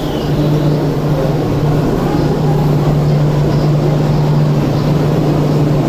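Enoden 500 series electric train pulling slowly into a station platform: the rumble of the passing cars with a steady low hum under it.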